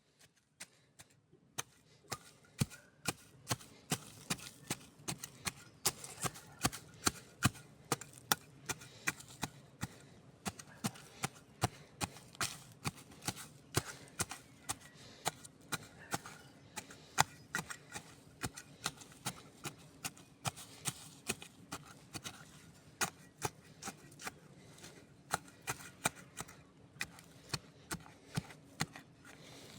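Wood campfire crackling: irregular sharp pops and snaps, a few loud ones each second, over a low steady hiss of burning.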